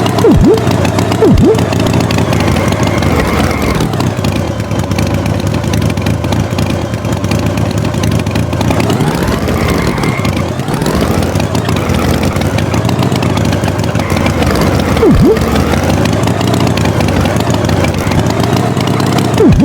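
A tractor engine running steadily, its pitch rising and falling as it revs, with a few short thumps that drop quickly in pitch: three near the start, one past the middle and one at the end.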